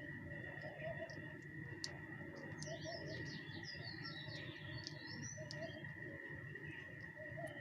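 Small birds chirping in quick clusters of short notes, busiest in the middle, over a steady high-pitched tone and a low outdoor rumble.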